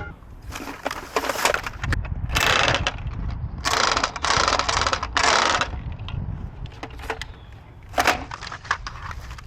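Aluminium pans and junk being handled and pulled from a trash pile, scraping and clattering in several bursts about one to two seconds long, with a short one near the end.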